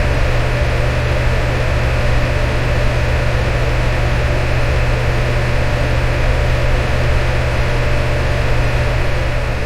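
Electric fan running steadily: an even whoosh of moving air over a deep motor hum, with no change in speed.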